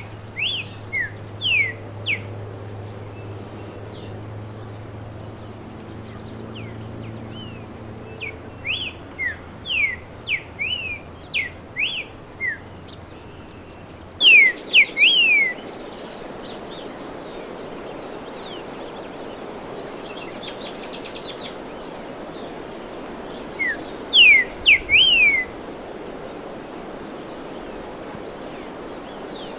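Streaked saltator singing: short phrases of a few quick, sliding whistled notes, repeated in bursts with pauses of several seconds, the loudest phrase about halfway through.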